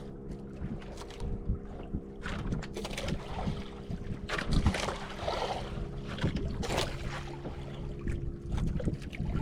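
Boat engine running steadily at a constant pitch, with irregular wind buffeting and water noise over it.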